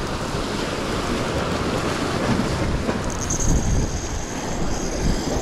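Wind buffeting the microphone over the wash of sea surf, a steady loud rushing noise. A faint thin high whine joins it about three seconds in.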